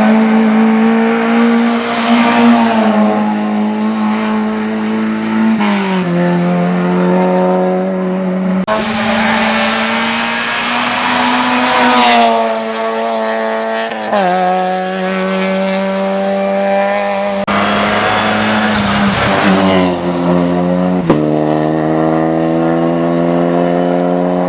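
Race car engine running hard at high revs on a hill-climb run, its pitch stepping down and jumping back up several times with gear changes and throttle lifts.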